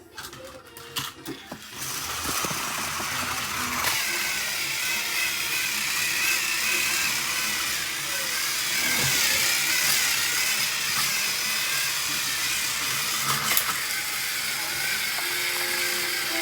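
Small electric motors and gears of battery-powered toy train engines whirring steadily with a wavering whine, starting about two seconds in after a few clicks.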